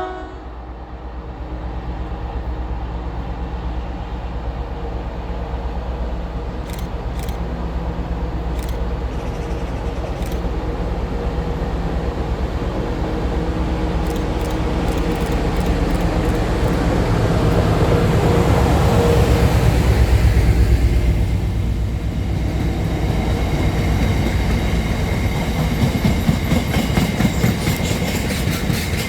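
A train running past on the line: a steady low rumble that builds to its loudest about twenty seconds in, then eases, with rapid wheel clicks over the rail joints near the end.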